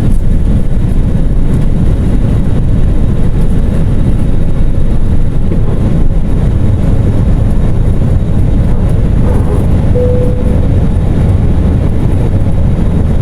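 Airliner jet engines running loud, heard from inside the passenger cabin: a steady, deep rumble with no change in pitch.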